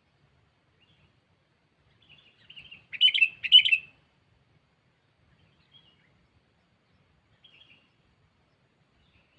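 Sooty-headed bulbul (kutilang) calling to challenge a rival: a few faint notes, then two loud, short chirping phrases about three seconds in, followed by a couple of faint scattered calls.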